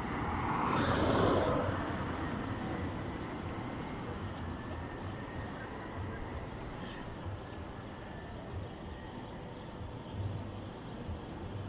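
Scania coach running, a steady engine and road noise that swells louder for about a second near the start and then settles.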